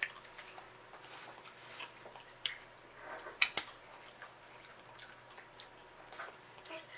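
Someone eating seafood boil in sauce: wet chewing and lip-smacking with scattered sharp clicks, the loudest about three and a half seconds in.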